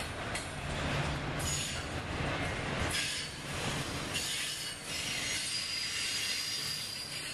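Double-stack intermodal freight train rolling past: the steady rumble and rattle of loaded container well cars on the rails, with occasional sharp knocks and a faint high-pitched wheel squeal.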